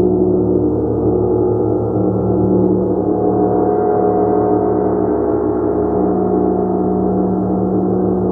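A large gong ringing in a steady, dense wash of many overlapping sustained tones, with no single strike standing out.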